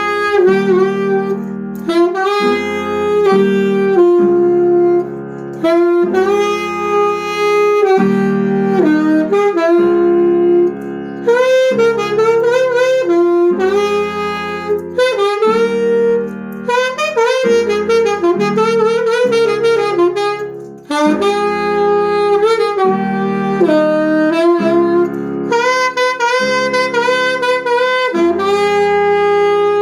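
Instrumental worship music: a solo saxophone playing a melody in phrases over held low chords that change every second or two.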